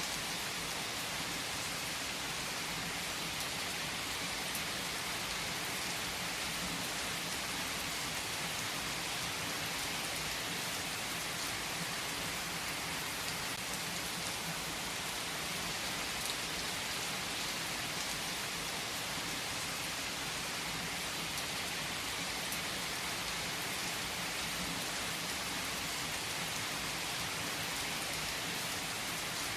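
Steady rain falling, an even, unbroken sound with no let-up.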